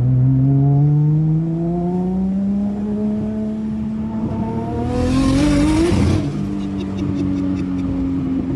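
The tuned turbocharged straight-six of a Nissan R32 Skyline, heard from inside the cabin, pulls steadily up through the revs for about six seconds under load. Near the top a loud rush of hiss rises over it, then the revs drop sharply, as at a gear change, and the engine settles into steadier running with a quick string of crackles.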